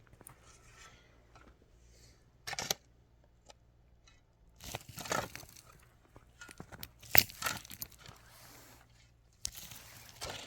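Rustling and crackling handling noise, like something being torn or crumpled, coming in about four short bursts.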